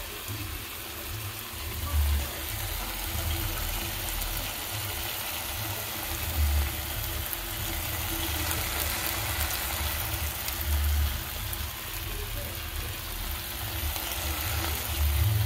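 Pigweed greens with onions and tomatoes sizzling steadily as they fry in a pan, with a few low thumps every few seconds.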